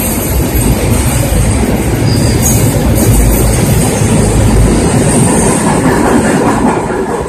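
BCACBM car-carrier freight wagons passing at speed: a loud, steady rolling rumble and rattle of wheels on rail, easing off near the end as the brake van at the tail of the train goes by.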